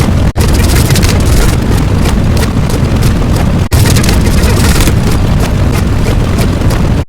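Loud, dense rumbling noise sound effect, cut off briefly about a third of a second in and again near four seconds.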